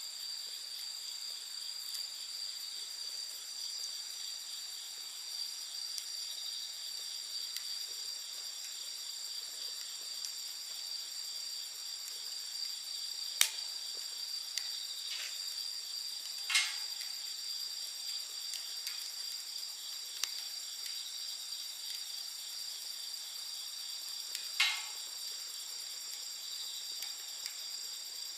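A steady, high chorus of night insects chirring without a break, with the wood fire giving a few sharp pops and crackles: three louder ones about halfway, a few seconds later and near the end.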